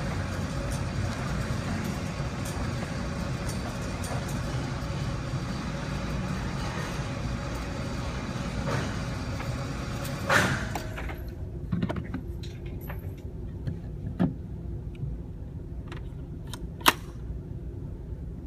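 Steady rumbling noise for about ten seconds that cuts off suddenly, then a few sharp cracks of gunfire, the loudest a little before the end.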